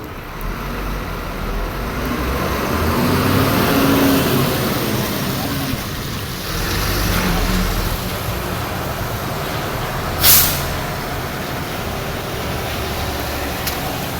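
Heavy fire engine running and moving off, its engine note swelling and rising, then falling. A short, sharp hiss of air brakes comes about ten seconds in.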